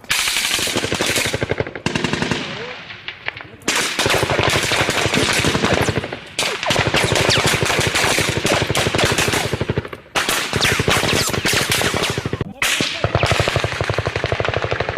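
Automatic gunfire: long bursts of rapid shots, broken by several short pauses.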